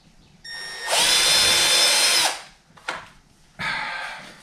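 Power drill pre-drilling pilot holes in a wooden door: it starts softly about half a second in, runs at a steady full-speed whine for about a second and a half, then winds down. A click and a brief, quieter sound follow near the end.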